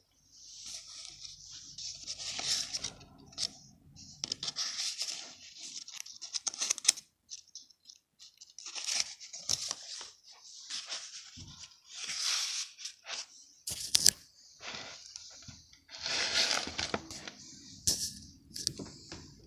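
Paper rustling and scraping as it is handled, in irregular bursts, with a few sharp clicks.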